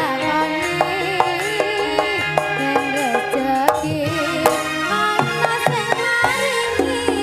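Live Javanese jaranan music: hand drums beat a quick, busy pattern under a wavering melodic line, with a steady low accompaniment.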